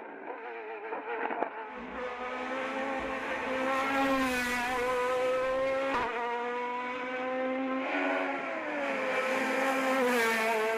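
Racing car's engine at high revs on a hill-climb run, its pitch rising and falling with throttle and gear changes. There is a sharp crack about six seconds in.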